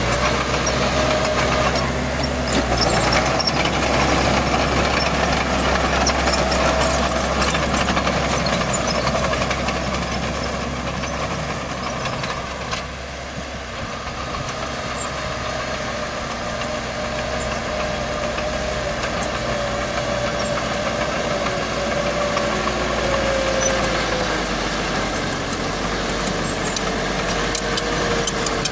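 Heavy earthmoving machinery at work, a bulldozer and dump trucks: steady low diesel engine drone with a whine that wavers up and down in pitch, easing off briefly about halfway through before building again.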